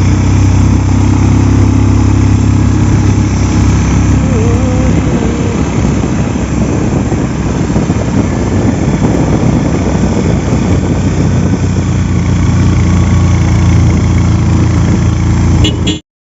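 A vehicle engine running steadily with a low, even hum under loud noise, as if heard while riding. The sound cuts off suddenly right at the end.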